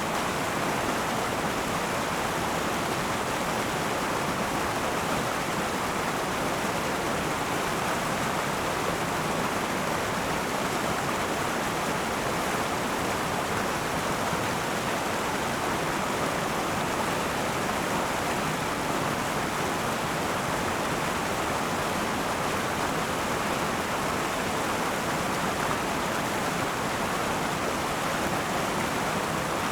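Akan River flowing: a steady, unbroken rush of running water over the riverbed.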